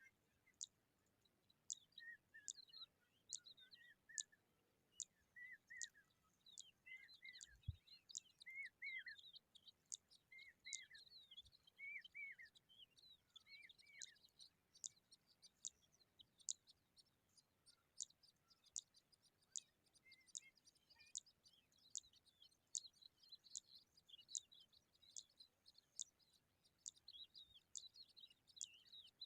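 Faint bird calls: sharp high chirps repeating about once a second over busy warbling twitters, with a series of short, lower arched calls through the first half.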